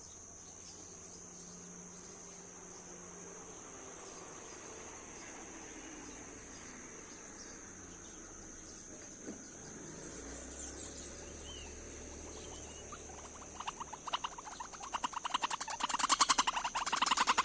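Steady high-pitched insect trilling, cricket-like. Near the end a loud, fast rattle of quick, evenly spaced clicks sets in over it.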